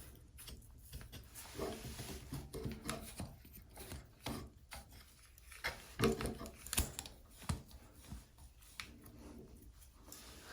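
Faint handling noise of shower fittings being screwed together by hand: light rubbing and scraping of threads with scattered small clicks.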